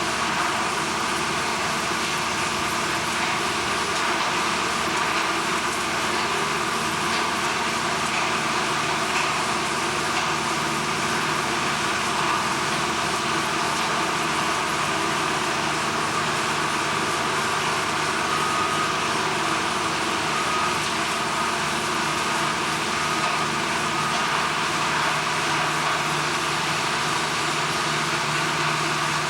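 Steady industrial machinery noise, a constant rushing din with a low hum and a higher whine held throughout.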